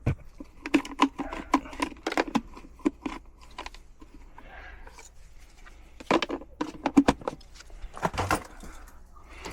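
Irregular clicks, clinks and rattles of small tools and parts being handled: a blown fuse being pulled out and a new one fitted with a fuse puller in an air-conditioning unit's control circuit.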